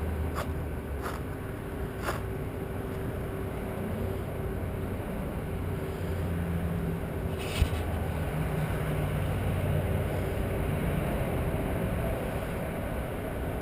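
Steady low hum of an idling engine. Several light clicks come in the first two seconds, and one sharp click comes about seven and a half seconds in.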